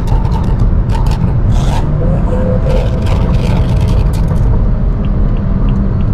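BMW 335i's N55 turbocharged straight-six heard through a microphone at the exhaust, running under way with a deep, steady drone and several short bursts of hiss. A faint regular ticking starts near the end.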